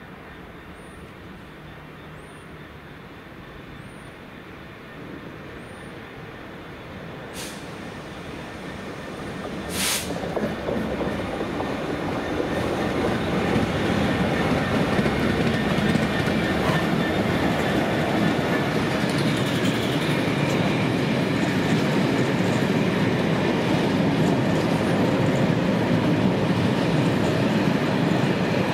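A train approaching and passing close by: the rumble and wheel noise build over the first dozen seconds, then hold steady and loud as the train runs past, with some wheel squeal. Two sharp cracks come about 7 and 10 seconds in, and birds chirp faintly before the train gets loud.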